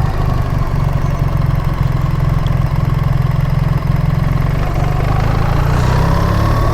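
BMW R 1300 GS boxer-twin engine running steadily at low revs as the motorcycle creeps along at walking pace, with the pitch rising slightly near the end.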